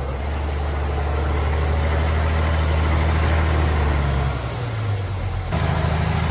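Heavy three-axle truck engine running under load with a steady low drone. Its pitch drops a little about four seconds in, and the sound changes abruptly shortly before the end.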